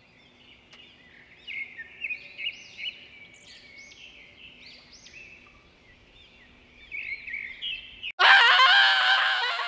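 Small birds chirping: a quick run of short, high chirps. About eight seconds in, a louder sound with a wavering pitch cuts in.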